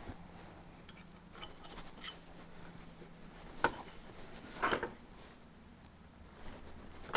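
A few light metallic clicks and clinks, spread over several seconds: steel parts of a trailer jockey wheel being handled and fitted together, the axle pin going back through the wheel.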